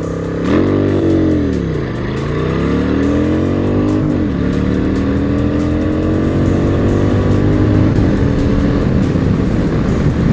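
Honda Shadow 750 V-twin with a Short Shots aftermarket exhaust and K&N air filter accelerating hard from low speed in a 0-100 km/h run. The revs flare and dip as it pulls away, climb through first gear, drop at the shift into second about four seconds in, then climb steadily again, with wind rush over it.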